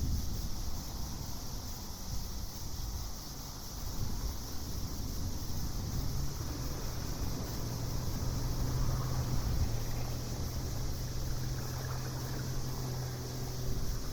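Night-time outdoor ambience: a steady high-pitched insect chorus over a low rumble. A low steady hum joins about six seconds in.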